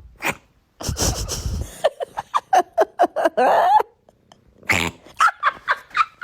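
Cat making quick runs of short, clipped sounds: a few sharp noisy bursts at first, then a rapid string of short pitched calls about two seconds in, and another string near the end.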